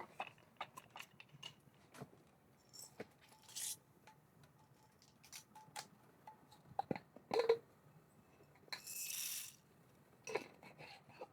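Scattered light clicks, taps and brief rustles of small objects being handled, with a short hiss about nine seconds in.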